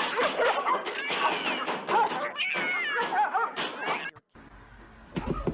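Cats meowing, many short calls bending up and down in pitch, one after another, cutting off suddenly about four seconds in.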